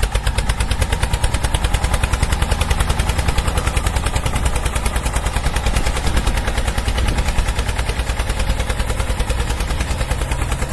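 Tractor engine chugging in a fast, even rhythm of about ten beats a second.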